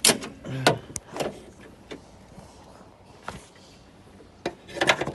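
Bonnet of a 2010 Toyota Fortuner being opened: a string of sharp clunks and clicks from the release and latch and the lid being handled, loudest at the start and near the end.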